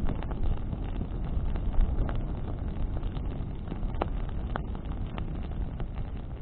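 Bonfire of burning branches crackling, with several sharp snaps scattered through, over a steady low rumble of wind buffeting the microphone.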